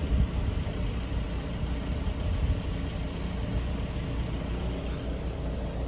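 A vehicle engine idling: a steady low rumble with no change in pitch or level.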